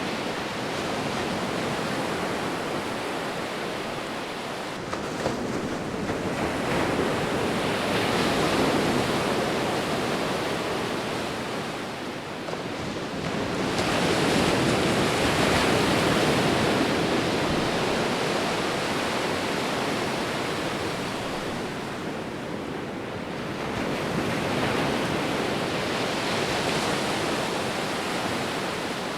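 Sea waves rolling in, the surf swelling and fading about every eight to ten seconds, three times.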